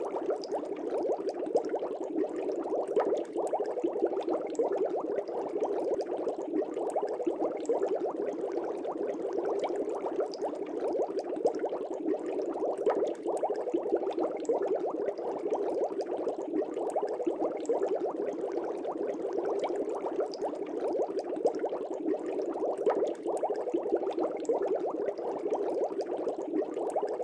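Aquarium water bubbling: a steady, dense stream of air bubbles rising and popping in a fish tank, a continuous gurgle of many small pops.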